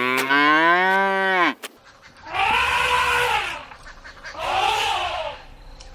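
A cow mooing: one long call that rises in pitch and stops about a second and a half in. Then a cat meows twice, higher and shorter.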